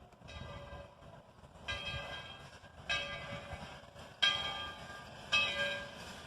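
Steam locomotive's bell ringing in slow, steady strikes, about one every second and a quarter, each note ringing on and fading, over a faint low rumble of the train.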